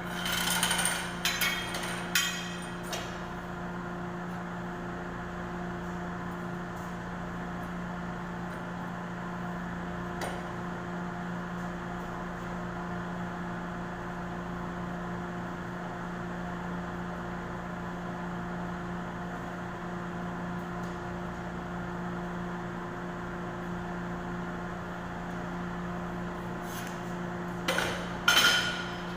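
Metallic clinks and taps of tools and metal conduit being handled, in a cluster during the first three seconds and again near the end. A steady low electrical hum runs underneath throughout.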